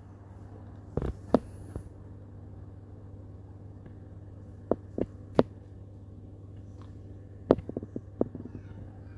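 Whirlpool dishwasher running in the last minutes of its cycle with a steady low hum, broken by a handful of sharp clicks and knocks.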